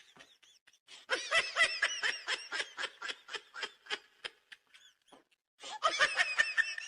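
A person giggling: a fast run of high-pitched laughs, a short pause, then more laughing near the end.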